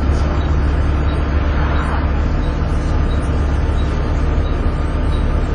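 Volvo B7TL double-decker bus's inline-six diesel engine, heard from inside the bus, running steadily under load with a deep drone. A thin steady whine above it is the 'hoover' noise.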